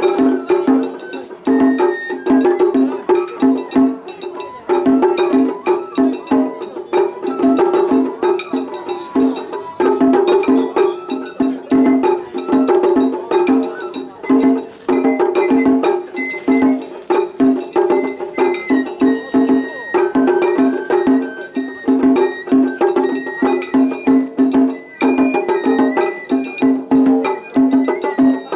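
Japanese matsuri-bayashi festival music: fast, steady strokes on small taiko drums under a high bamboo-flute (shinobue) melody, with a small hand gong (atarigane) ringing on top.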